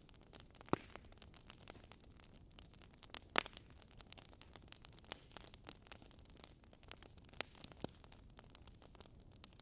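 Wood fire crackling in a fireplace: irregular sharp pops and snaps over a soft hiss, with two louder pops near the start.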